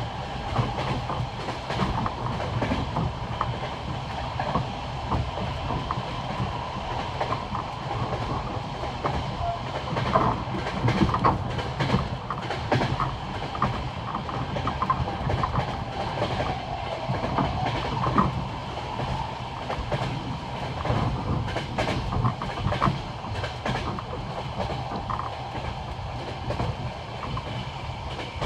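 Passenger train wheels clicking over the rail joints of old jointed track at speed: a steady rolling rumble with the classic clickety-clack knocks repeating throughout.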